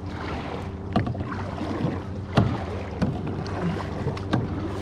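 Kayak paddling: water splashing and dripping off the paddle blades, with several sharp knocks or splashes spread through, over a steady low hum and some wind.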